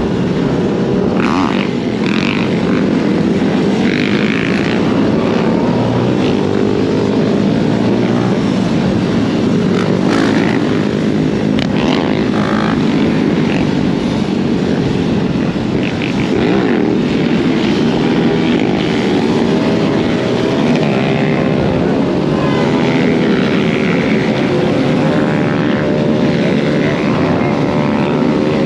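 Riding noise from a dirt bike on a trail: a steady rush of wind over the microphone with a motor running underneath, its pitch rising and falling with the throttle. A few sharp knocks are heard along the way.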